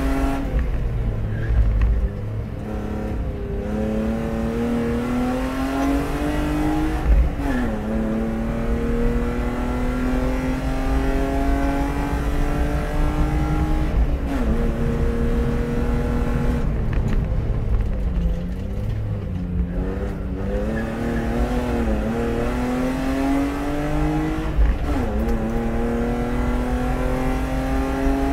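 BMW E36 320i race car's 2.0-litre straight-six under hard acceleration, heard onboard: the engine pitch climbs steadily through each gear, then falls sharply at each gear change and dips as the car slows for bends.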